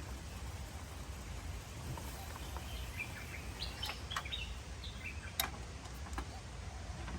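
Small birds chirping in short calls, mostly in the middle stretch, over a steady low rumble, with a few sharp clicks, the loudest a little past five seconds in.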